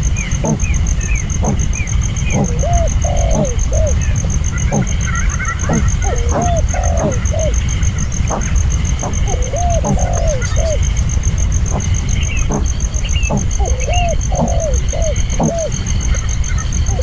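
A dove cooing in short phrases of two or three rising-and-falling coos, repeated every few seconds, with small birds chirping faintly higher up. A steady high pulsing buzz and a low rumble run underneath.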